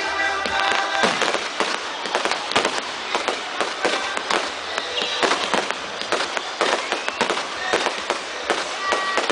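Fireworks and firecrackers going off in a rapid, continuous string of sharp bangs and crackles, several a second, with no break.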